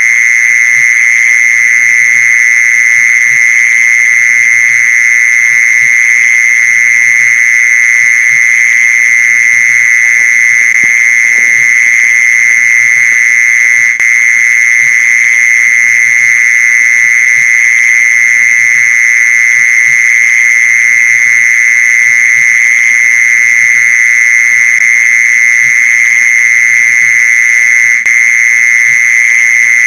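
Mole cricket call: a loud, unbroken, steady trill pitched near 2 kHz, held without pause.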